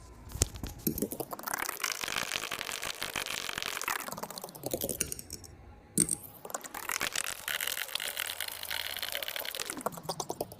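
Thick wet paint being mixed: a dense run of small sticky clicks and smacks that swells and fades in two long passes, with a brief pause and a sharp knock about six seconds in.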